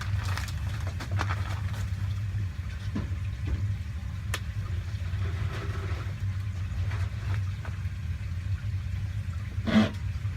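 A steady low mechanical hum, like a motor running, with a few faint clicks and one short louder clatter near the end.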